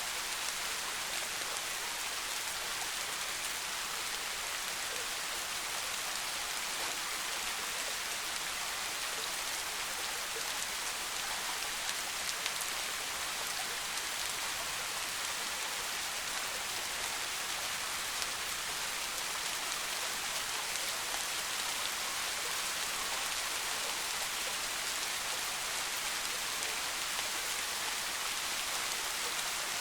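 Steady rain falling through a forest, a soft even hiss of drops with occasional faint individual drip ticks.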